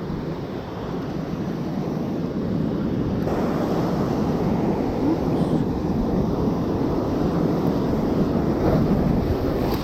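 Heavy surf breaking and washing over the shore, with wind buffeting the microphone. The rush of water swells about three seconds in and stays loud.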